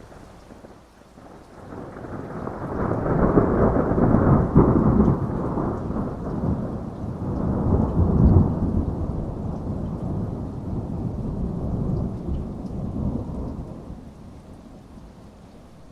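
A long roll of thunder over steady rain: the rumble swells about two seconds in, peaks twice (around four and eight seconds), and dies away near the end.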